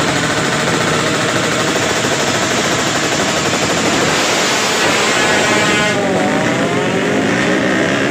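Drag bike racing motorcycle engines revving loudly, their pitch rising and falling over a dense, steady engine din.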